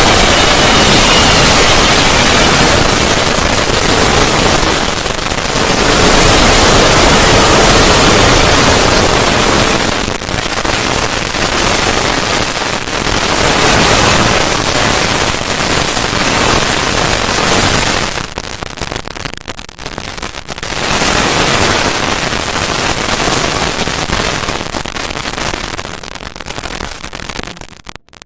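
The 'void' sound effect: a loud, dense crackling noise like static, swelling and dipping every few seconds. It thins out in longer dips near the end and briefly drops almost to nothing just before the end.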